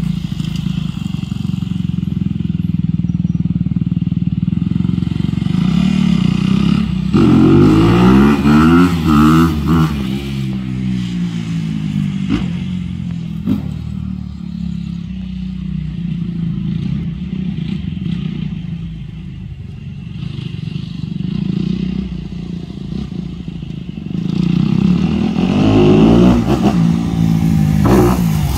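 Dirt bike engine running, revved up and down in two bursts, about a quarter of the way in and again near the end, with a couple of brief knocks in between.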